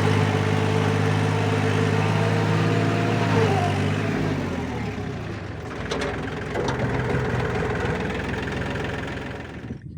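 A tractor's diesel engine idling steadily. About four seconds in its note falls away as it slows and stops, and fainter noise with a few knocks follows.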